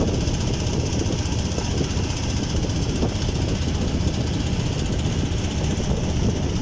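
A motor running steadily with an even low rumble.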